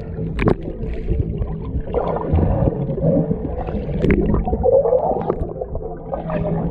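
Boat engine running steadily, with water gurgling.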